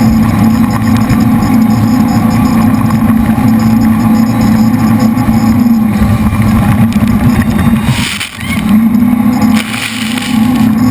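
The jet boat's three V8 engines running hard at speed, a loud steady drone. About eight seconds in the engine note dips briefly, then a rush of higher noise follows for about two seconds.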